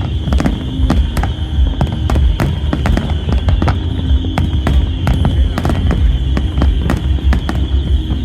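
Fireworks display: a rapid, continuous string of bangs and crackles, several a second, over a steady deep rumble.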